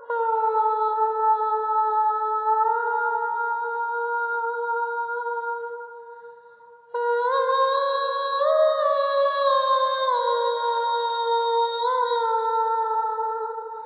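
A soprano voice singing long, steady wordless notes: two held tones, the second starting suddenly about halfway through, each stepping slightly up in pitch and back, then fading out.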